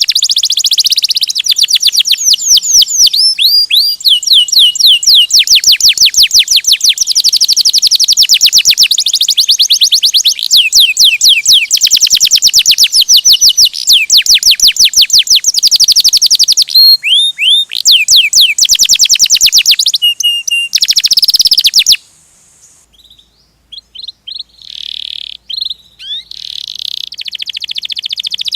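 Canary singing loud, fast rolling trills of rapidly repeated whistled notes, switching to a new trill every few seconds. The song cuts off abruptly about three-quarters of the way through, then resumes more quietly.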